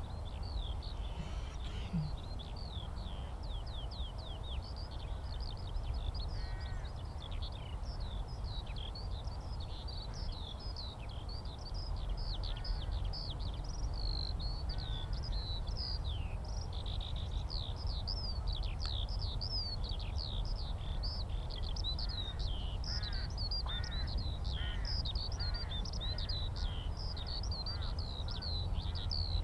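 Skylark song: a continuous stream of rapid, high, twittering notes, with a few lower, harsher calls from another bird now and then.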